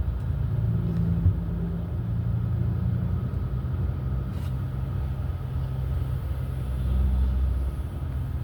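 Steady low mechanical rumble heard from inside a car's cabin in an automatic car wash, with a low hum held under it and a slight swell near the end.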